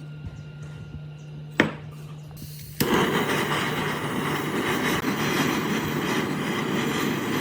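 A single sharp knock, then about a second later a loud, steady, rushing noise from a workshop tool starts abruptly and keeps running without a clear pitch.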